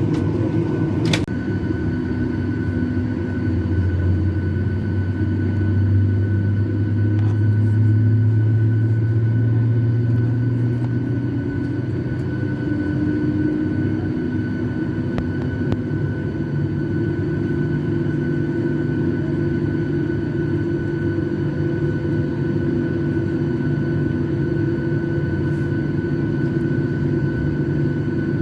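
Steady cabin noise inside an airliner before takeoff: a constant hum with a few steady whining tones, and a deeper drone that swells for several seconds near the middle, then settles.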